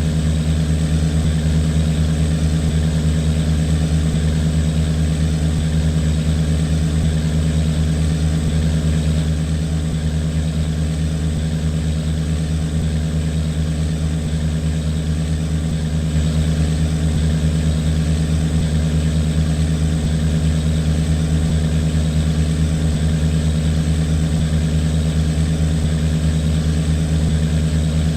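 Boat engine running steadily at a constant speed, a low, even drone; it eases off a little for several seconds around the middle, then comes back up.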